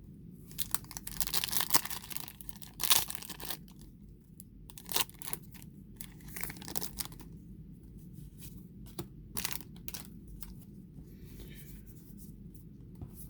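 Foil wrapper of a Pokémon booster pack being torn open and crinkled, a run of ripping and rustling over the first few seconds. After that, scattered light clicks and rustles as the cards are handled.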